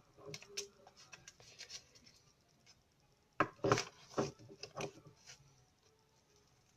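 Scissors snipping through A4 paper: a few short cuts early on, then a louder cluster of snips and paper handling about three and a half seconds in.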